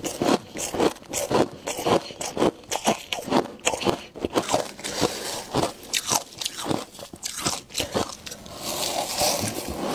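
Crunchy ice being bitten and chewed, a quick run of sharp crunches about two to three a second, turning into a longer continuous grinding crunch near the end.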